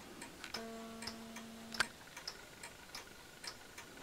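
Pendulum wall clocks ticking, a few ticks a second. About half a second in, a steady low hum joins in for just over a second and stops with a sharp click.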